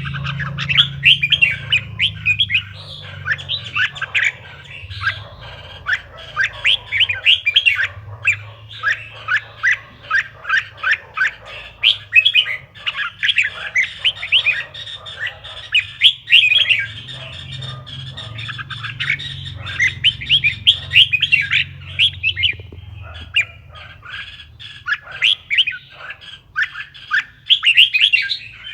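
Red-whiskered bulbul singing: a continuous run of quick, sharp chirping notes in rapid phrases, with a steady low hum underneath.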